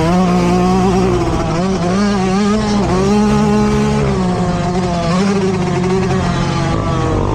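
Motocross dirt bike engine running hard, its pitch rising and falling with the throttle.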